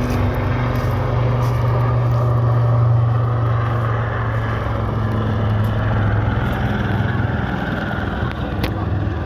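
Royal Navy Wildcat helicopters flying a display, a steady low drone that swells slightly about three seconds in.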